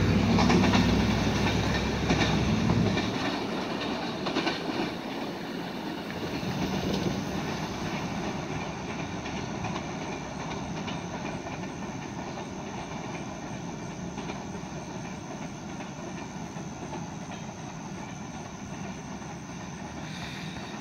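Freight train cars rolling past with wheels clattering over the rail joints. The heavy rumble drops away about three seconds in, leaving the fainter, steady sound of the train moving off down the line.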